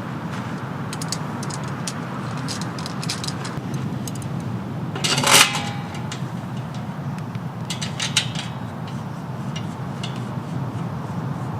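Steady rain falling, with small clicks of camp cookware handled now and then and one louder metallic clink about five seconds in.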